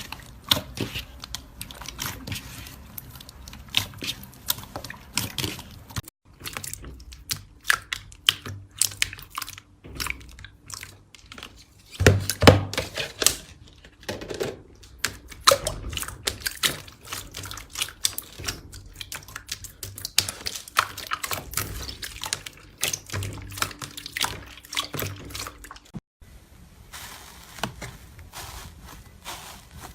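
Slime being squeezed and worked by hand, giving a steady stream of wet clicks, crackles and pops. It breaks off abruptly twice, once about six seconds in and again near the end, each time going on with a slightly different texture.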